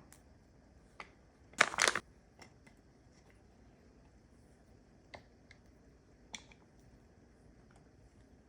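Light clicks and taps of small objects being handled, a few seconds apart, with one louder noisy burst lasting under half a second about a second and a half in.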